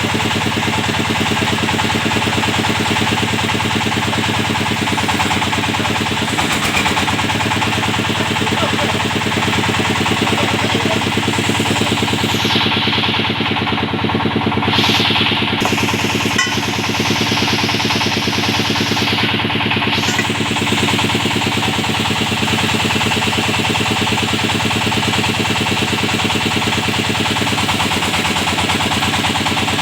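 Engine of a hydraulic well-drilling machine running steadily, with a rapid, even pulsing.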